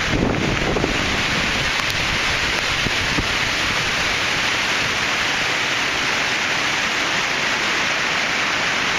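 Strong hurricane-force wind roaring steadily, a dense, even rush of noise without letup.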